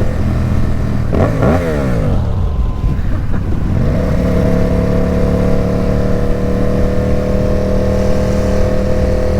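Ducati Supersport 950 S's 937 cc Testastretta L-twin running through an aftermarket Competition Werkes exhaust while riding. The revs drop sharply about a second in as the throttle closes, then climb again around four seconds in and hold steady.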